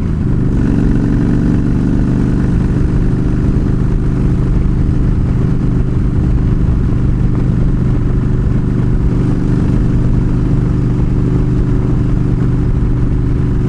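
Yamaha V-Star 1300's V-twin engine running at a steady speed, its pitch holding level throughout.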